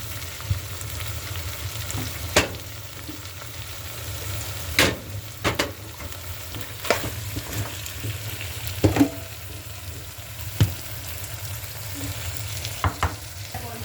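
Food sizzling steadily in a hot frying pan while being stirred, with a spatula knocking against the pan about seven times at irregular moments.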